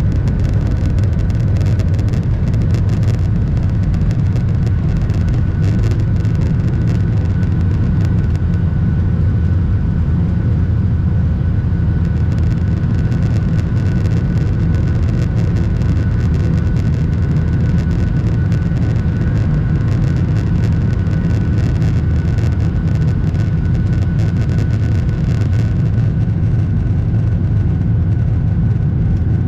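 Cabin noise inside a Boeing 737-800 during takeoff, its CFM56 engines at high thrust: a loud, steady low rumble with a faint steady whine above it.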